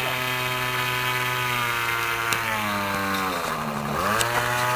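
Model airplane glow engine running at high speed, throttled back a little over two seconds in and opened up again about four seconds in, its mixture judged lean on the low end.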